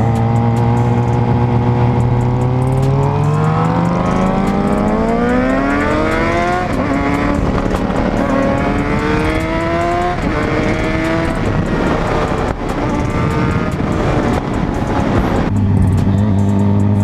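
Sport motorcycle engine accelerating hard through the gears: the pitch climbs, falls at each upshift and climbs again, two or three times. Then comes a stretch of wind and road noise, and a steady engine note near the end.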